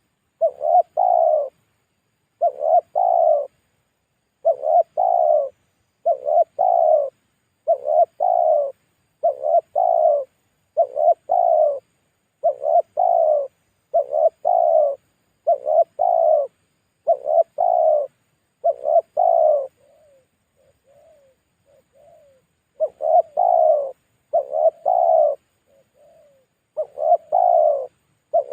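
Spotted dove (tekukur) cooing over and over, a two-part coo phrase about every two seconds, with a few soft, short notes about two-thirds of the way through before the full phrases resume. This is a pikat, the decoy call used to lure wild spotted doves.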